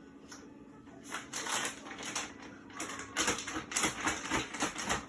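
Plastic vacuum-sealer bag crinkling and crackling in irregular bursts as it is handled, starting about a second in, over a steady low hum.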